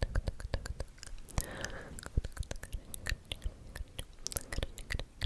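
ASMR mouth sounds close to the microphone: a quick, uneven run of wet clicks and smacks, with a brief breathy hiss about a second and a half in.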